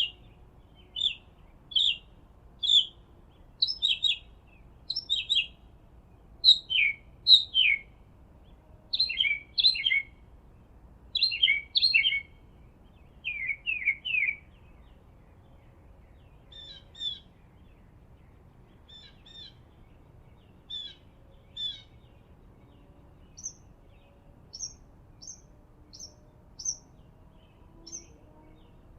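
Songbirds chirping: short, sharply falling notes, often in pairs, repeated about once a second and loud for the first half. They then give way to fainter, sparser chirps, and higher, thinner ones near the end.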